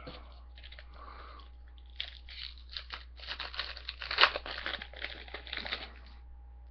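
Trading card pack wrapper being torn open and crinkled, a dense crackling rustle from about two seconds in to near the end, with one sharp loud crackle in the middle.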